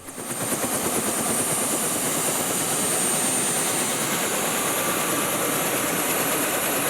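Helicopter running steadily: an even rushing noise with a thin, high, steady whine over it.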